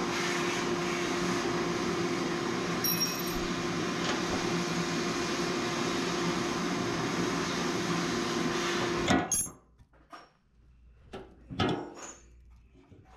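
A motor-driven machine runs steadily with a constant hum, then cuts off suddenly about nine seconds in. After it stops, there are a few scattered clicks and knocks of parts or tools being handled.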